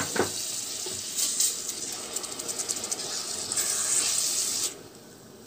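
Meat, fried onion and tomato sauce sizzling in a hot pot with a steady hiss, with a sharp knock at the start and a plastic spatula stirring through it. The sizzling drops to a faint hiss near the end.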